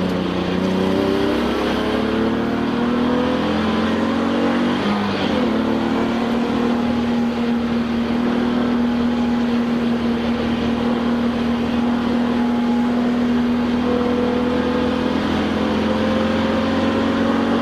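Touring race car engine heard from inside the car at racing speed: the engine note climbs for the first few seconds, drops sharply about five seconds in, holds steady for several seconds, then climbs slowly again near the end.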